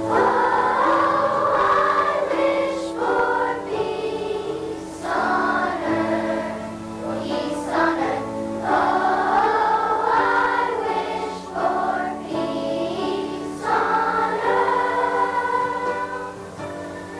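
Children's choir singing a slow song with accompaniment.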